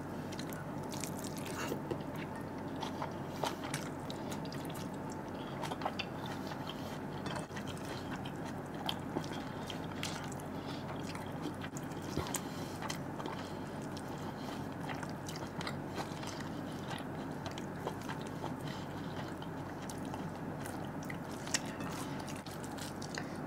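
A person chewing and biting a mouthful of chicken curry and rice, close to the microphone, with scattered small wet clicks and squishes from fingers working the rice and tearing the chicken.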